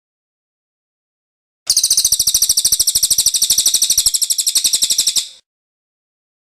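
Cililin bird singing its rolling song: a fast, even trill of high notes, about a dozen a second, starting a couple of seconds in and lasting about three and a half seconds before stopping abruptly.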